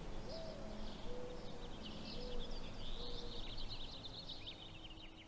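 Small birds chirping and twittering in quick runs of high notes, with a few short lower notes about a second apart, over a steady background hiss; the sound grows quieter toward the end.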